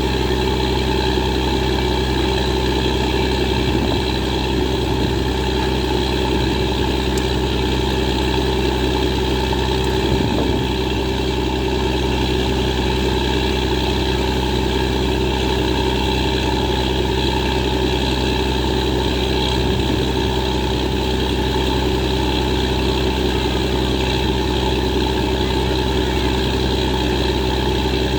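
Engine of a borewell drilling rig running steadily at a constant speed, with a deep hum and an even drone.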